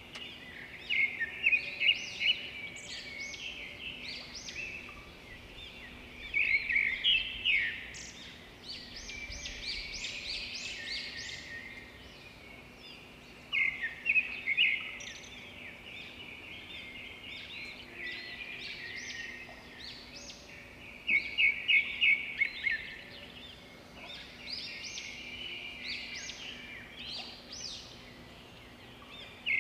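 Small songbirds chirping and twittering, several at once, in recurring bursts of rapid high calls and trills.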